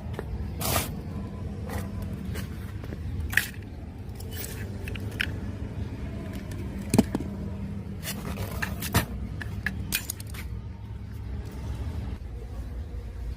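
Workbench handling noises during a radio cassette player repair: irregular scrapes and sharp clicks of tools against plastic and metal parts, the loudest about a second in and near the middle, over a steady low hum.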